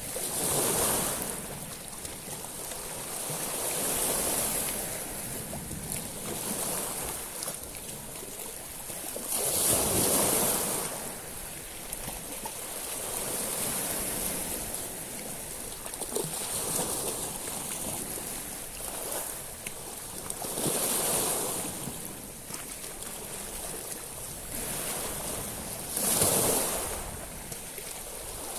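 Sea waves breaking on a beach of small stones, the water washing up and dragging back through the pebbles with a hiss. Several surges come a few seconds apart, the strongest about a third of the way in and near the end.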